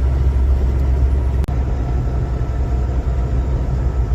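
Steady low engine and road drone heard from inside a moving vehicle's cab, with one brief click about one and a half seconds in.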